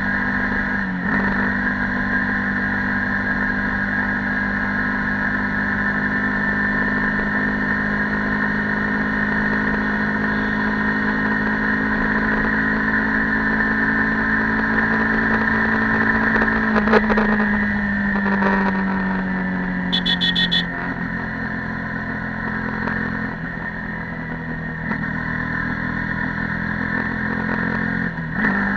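Stock Yamaha YZF-R15 V2.0's single-cylinder 150 cc engine running on the move. Its pitch rises slowly as the bike gathers speed after a gear change about a second in, then falls away from about seventeen seconds as it slows. A brief high-pitched pulsing sound cuts in about twenty seconds in.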